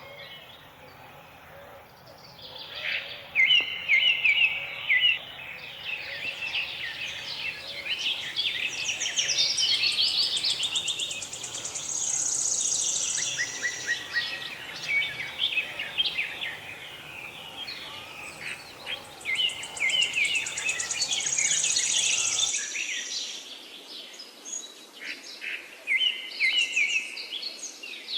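Several songbirds chirping and singing with quick, rapidly repeated notes and trills. A faint low background rumble drops out suddenly about three-quarters of the way through.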